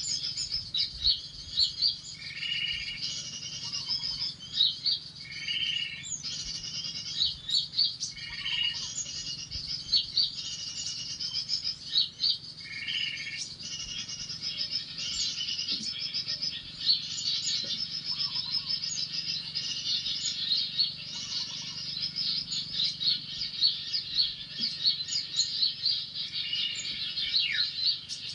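Small birds chirping and twittering continuously, with a lower call that comes back every three to four seconds.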